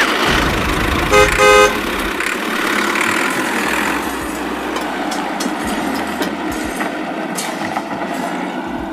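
Tractor engine running steadily, with two short horn toots in quick succession about a second in.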